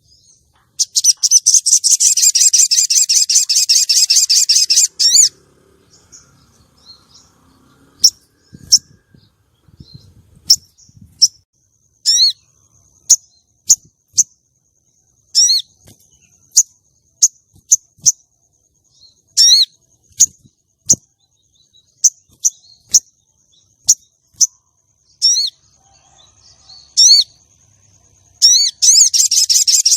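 A female sogon calling. It gives a long, rapid, high chattering trill, then a string of short sharp single notes about one a second, then another long chattering trill near the end. This is a lure call used to attract sogon and provoke males into calling.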